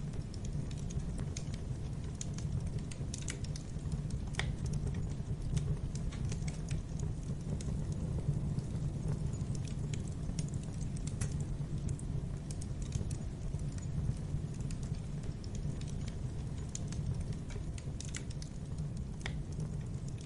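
Wood fire burning in a fireplace: irregular crackles and pops over a steady low rumble of flames.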